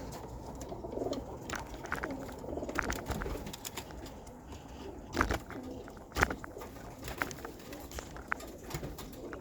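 Pigeons cooing, a steady low murmur, with scattered sharp clicks and two louder knocks about five and six seconds in.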